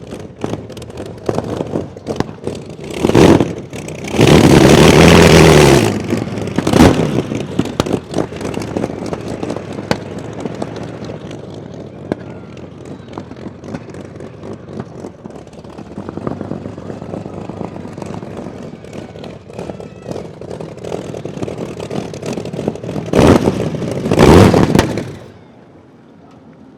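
27-litre V12 aero engine of the land speed record car BABS running with a rough, crackling beat, blipped loudly several times: briefly about three seconds in, held for nearly two seconds from about four seconds, and twice more near the end, before the sound drops away sharply.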